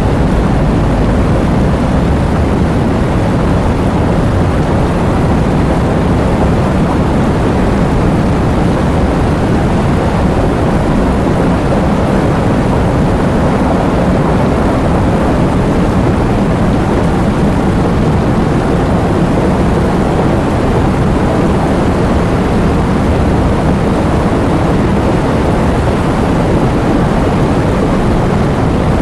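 Heavy rain and wind in a steady, unbroken rush, deep and rumbling rather than hissy.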